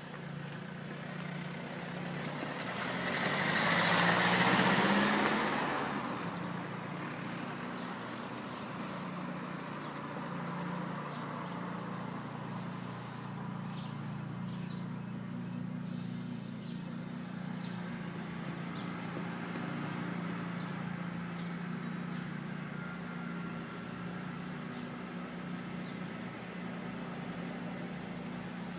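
A road vehicle passes by, loudest about four seconds in, over a steady low hum that continues throughout.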